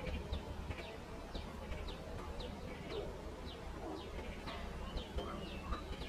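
Pipit giving a run of short, high chirps, each dropping quickly in pitch, about two a second, over a steady low rumble.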